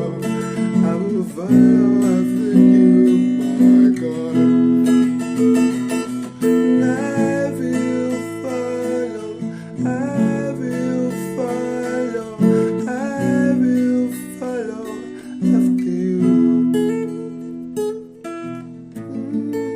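Music: acoustic guitar strumming chords, with a gliding melody line above it.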